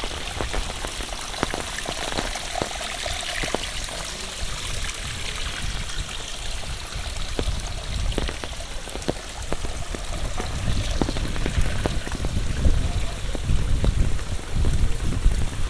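Monsoon rain falling, with many separate drops tapping close by. A low rumble grows louder through the second half.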